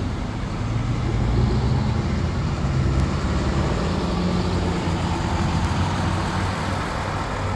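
A convoy of tow trucks driving past, their engines making a steady low hum.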